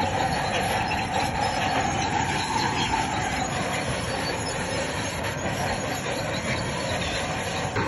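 Crawler bulldozer working, its engine running under steady noise while the steel tracks squeal and grind, the squeal easing off after about three seconds.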